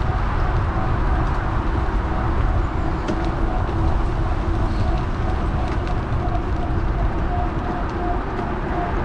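Wind buffeting and road rumble on the microphone of an action camera riding along on an electric bike, steady throughout, with a faint steady hum and a few light ticks.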